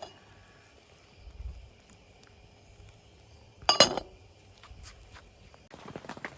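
A single loud clink of cookware, a utensil knocking against a pot or pan with a brief metallic ring, a little over halfway through. Near the end a quick patter of small rattling clicks begins.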